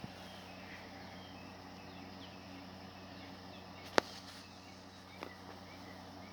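Quiet background with a steady low hum and faint high chirps, broken by one sharp click about four seconds in and a softer click about a second later.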